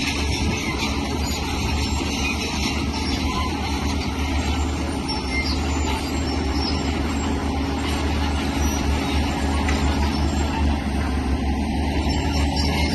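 Heavy earthmoving machine's diesel engine running steadily, a deep continuous drone with broad mechanical noise over it.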